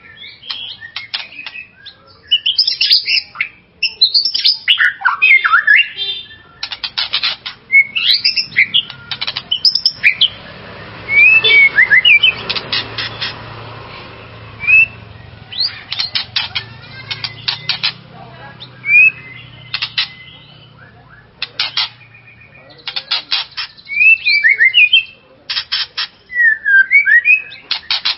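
White-rumped shama (murai batu) singing in loud bursts: varied whistled glides mixed with rapid rattling trills, phrase after phrase with short pauses between.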